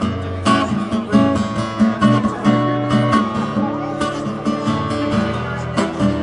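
Live music: acoustic guitar strummed in a steady rhythm, an instrumental passage between sung verses.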